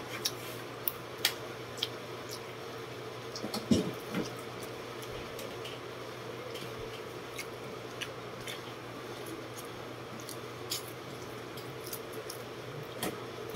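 A person eating rice and fish with his fingers: wet chewing and scattered small lip-smacking clicks, with a short cluster of louder sharp sounds and a thump about four seconds in. A steady electric-fan hum runs underneath.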